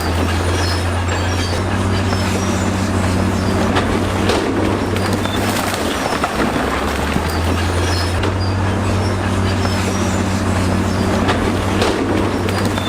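Crawler bulldozer's diesel engine running steadily, with the continuous clatter of its steel tracks; the engine note eases for a few seconds in the middle and then picks up again.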